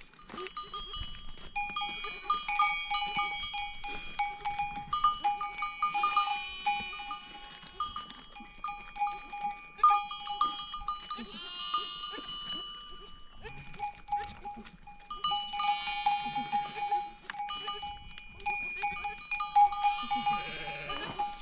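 Bells on a flock of sheep and goats ringing over and over as the animals move. Now and then an animal bleats.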